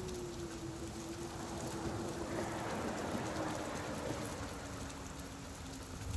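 Steady rain falling, a dense even hiss of drops. A faint low hum runs underneath, slowly dropping in pitch.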